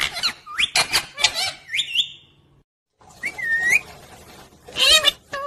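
Pet parrot calling: a quick run of sharp squawks and gliding whistled chirps, a brief break just before halfway, then more calls, the loudest near the end.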